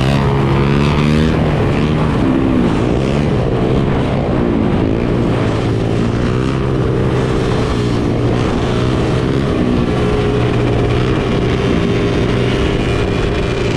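A crowd of dirt bike and ATV engines running together. Some hold a steady pitch while others rev up and down, overlapping.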